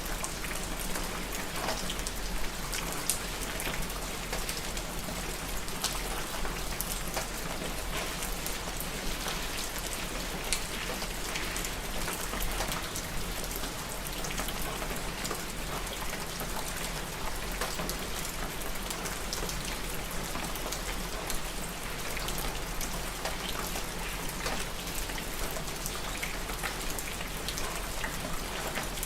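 Steady rain falling, with many individual drops pattering on a surface. It holds an even level throughout.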